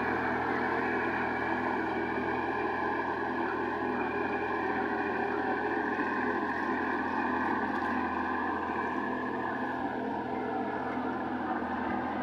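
Sonalika GT 26 mini tractor's diesel engine running steadily, its pitch dropping slightly about ten seconds in.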